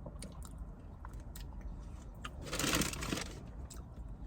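Sandwich wrapper being opened: faint scattered rustles and small clicks, with one louder crinkle lasting about half a second just past the middle.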